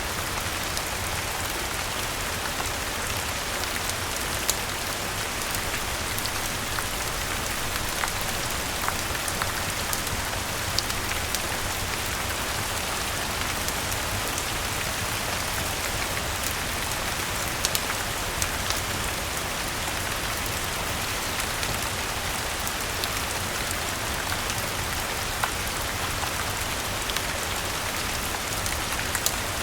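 Steady rain falling, an even hiss with scattered sharp ticks and pops.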